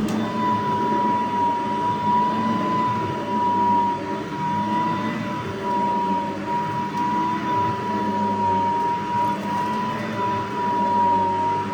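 Cordless Riccar SupraLite vacuum running steadily with a high, constant motor whine over a lower hum, its loudness wavering slightly as it is worked.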